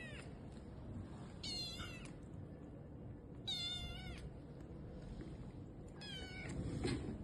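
Tiny kitten meowing three times, high-pitched cries of about half a second each, roughly two seconds apart, each falling in pitch at its end. A short knock comes near the end.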